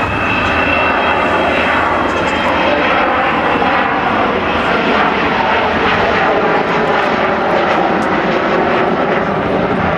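Aircraft engines running loud and steady, a dense even roar.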